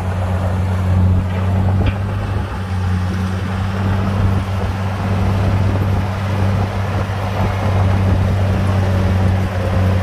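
Heavy diesel engine of a bulldozer running steadily, a low, even drone with no break.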